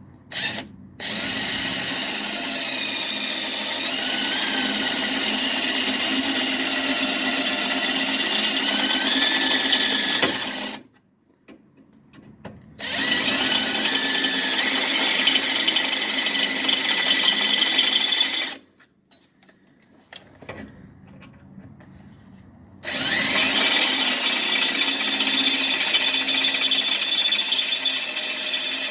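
An electric hand drill bores a hole into the car's metal with a larger bit, running in three long bursts with short pauses between them. Its whine drifts up and down as the bit bites.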